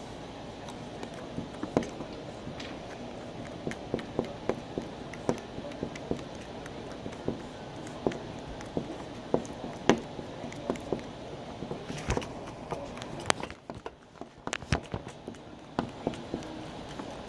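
Slime being handled: irregular sharp clicks and pops, a few louder than the rest, over a steady background hiss.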